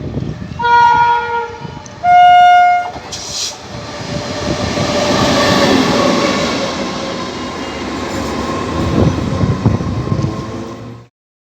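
Indian Railways locomotive horn sounding two blasts on different notes, the second shorter and louder, then the train running past with wheel clatter. The sound cuts off suddenly near the end.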